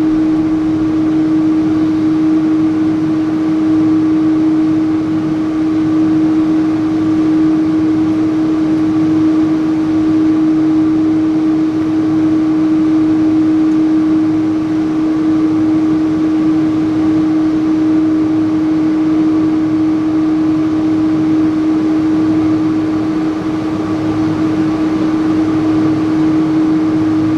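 Steady cabin drone of a Boeing 777-300 airliner: the engines and airflow are heard from inside the cabin as an even rushing noise with a constant low hum through it.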